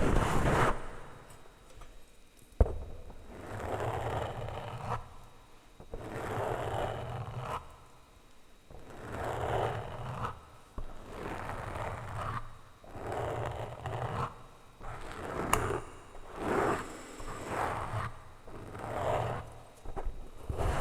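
Plastic utensils scraped and rubbed against a microphone in slow repeated strokes, about one every second or so, with a few sharp taps on the mic, one about two and a half seconds in.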